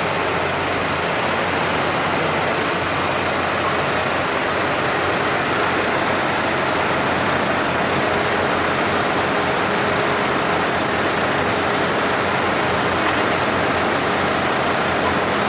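Tractor engines running steadily over a constant rush of noise, with no sharp events.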